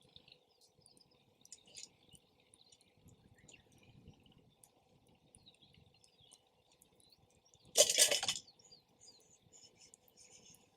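Campfire burning, with faint scattered crackles and small pops. About eight seconds in comes one loud, brief noisy burst lasting about half a second.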